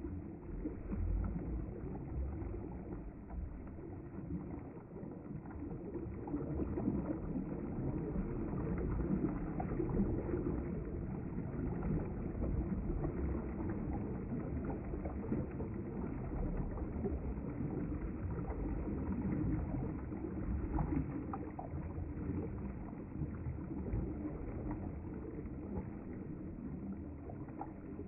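River water flowing steadily past the bank: a continuous, low rushing sound with no breaks.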